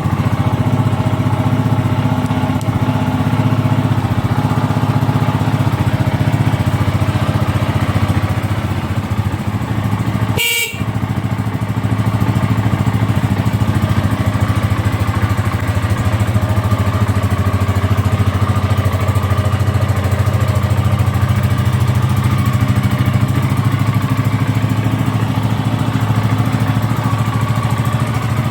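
Regulmoto SK200 motorcycle engine running steadily at idle just after starting, with a brief high-pitched break about ten seconds in.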